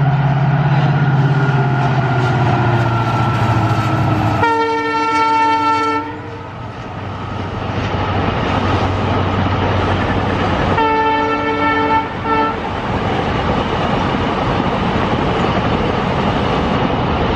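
WDG4G diesel locomotive hauling a double-stack container train past, its engine running with a steady low hum at first, over the continuous rumble and clatter of the container wagons rolling by. A train horn blows for about a second and a half about four seconds in, then again about eleven seconds in, followed by a short toot.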